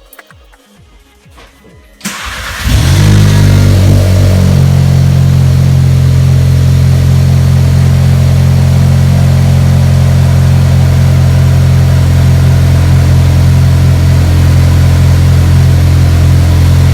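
A Golf 1.8 TSI turbo four-cylinder, running with a GTI downpipe and no muffler, starts about two seconds in. It flares up briefly, then settles into a steady, really loud idle.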